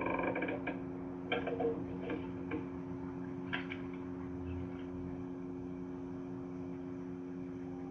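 Steady electrical hum with a few scattered ticks and clicks in the first half, during a quiet stretch of a film soundtrack played back on a TV.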